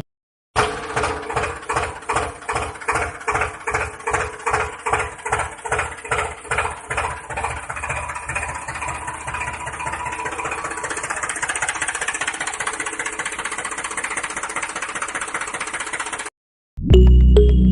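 Small engine of a DIY mini tractor chugging with a slow, even beat of about three pulses a second, then smoothing into a steady faster run about halfway through, and stopping suddenly near the end.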